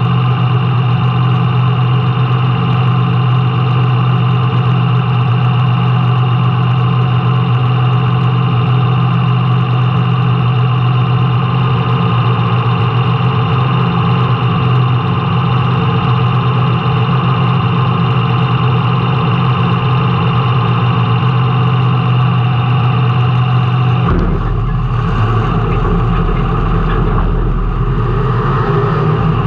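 Race car engine heard from the in-car camera, running hard at a steady pitch for most of the time; near the end the note drops and turns rougher and lower.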